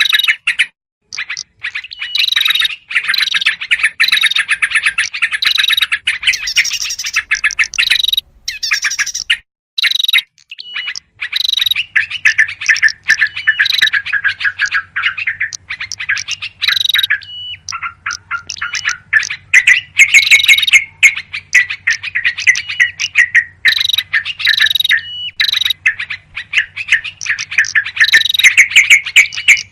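Yellow-vented bulbuls giving fast, dense, overlapping chattering calls, the excited 'ribut' chatter used in a bird-lure recording to draw in small birds. A faint low hum joins underneath about twelve seconds in.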